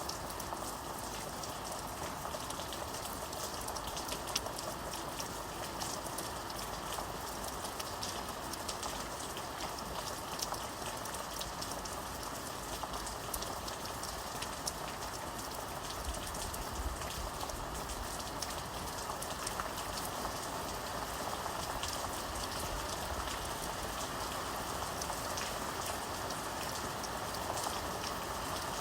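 Steady rain falling, a continuous hiss with many individual drops ticking.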